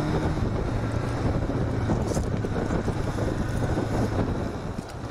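Motorcycle engine running, with wind rushing over the camera microphone. The steady engine hum drops away about four seconds in.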